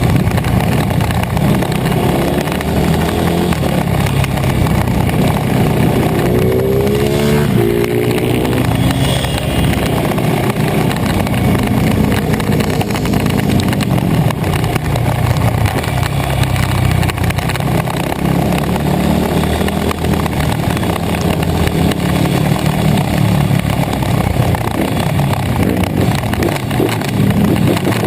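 Pit bike engines running, with one revving up in a rising pitch about seven seconds in.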